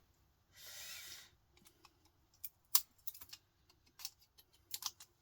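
Pliers clicking and snapping as components are pried off a computer power-supply circuit board: a brief rush of noise about a second in, then a run of sharp, irregular clicks and snaps, the loudest near the middle.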